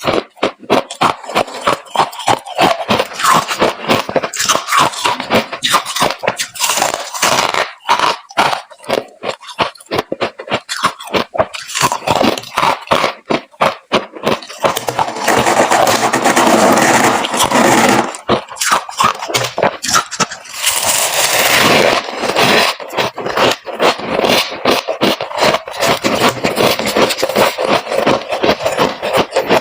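Freezer frost being crunched and chewed close to the microphone: a rapid run of crisp crunches, turning into a denser, steadier stretch about halfway through.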